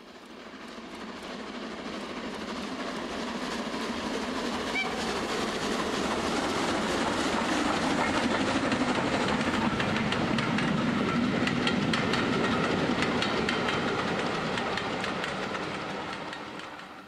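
A train passing, its wheels clattering over rail joints in a steady clickety-clack; it swells up over the first few seconds and fades away near the end.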